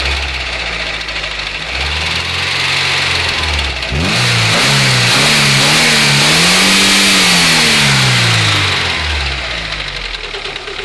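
Volkswagen Golf 2's 1.6 engine idling with a knock near the first spark plug, revved briefly about two seconds in, then revved up and back down in one long rise and fall. The knock comes from a tensioner roller whose bearing has fallen apart, its balls dropped out; the owner first suspects a hydraulic lifter or the camshaft.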